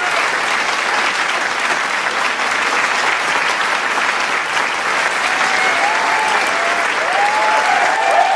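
Large crowd applauding with dense, continuous clapping. From about five seconds in, scattered cheers and whoops rise over the clapping.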